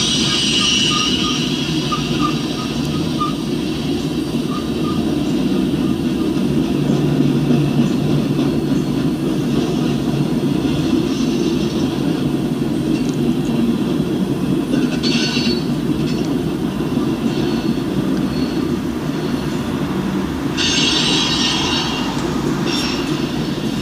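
Freight train's covered hopper cars rolling past with a steady rumble of wheels on rail. High-pitched wheel squeal rises over it at the start, briefly about two-thirds of the way through, and again near the end.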